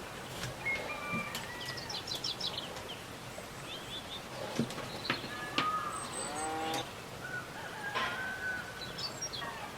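Several birds singing and chirping: short whistled notes and quick trills, with a longer harmonic call about six seconds in. A few short clicks or taps sound among them.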